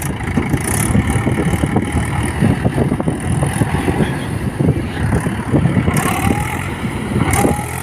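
Swaraj 843 XM tractor's diesel engine running with a dense, uneven low clatter.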